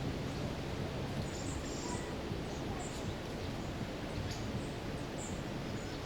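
Steady rushing of a fast mountain river, with a few short high bird chirps scattered over it.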